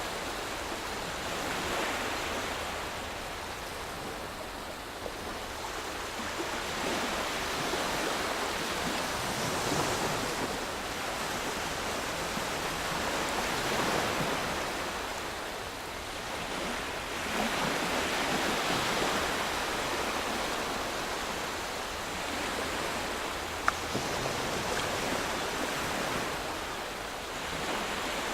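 Calm waves washing on a sandy shore: a steady hiss of surf that swells and eases every four seconds or so.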